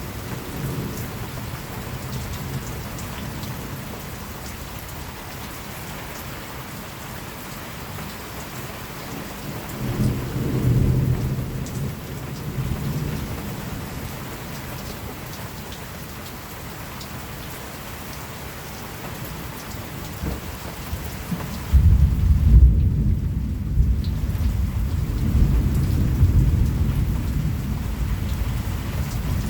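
Steady rain with thunder. A low rumble of thunder swells about ten seconds in. A louder thunderclap breaks about three-quarters of the way through, then rolls on as a deep rumble.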